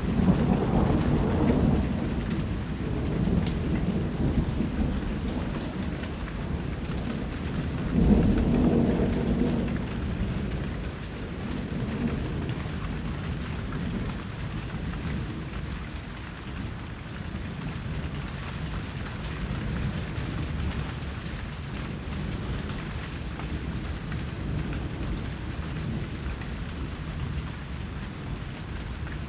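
Steady rain falling, with thunder rumbling low twice: a roll at the start and a louder one about eight seconds in.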